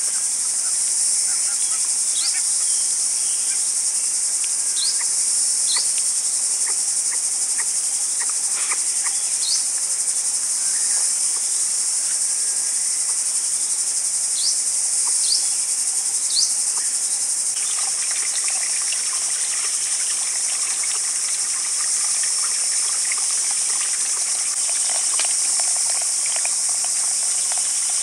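A steady, high-pitched insect chorus of crickets or cicadas. Short rising bird chirps come through every few seconds in the first half, and faint scattered ticks and crackling come in about halfway through.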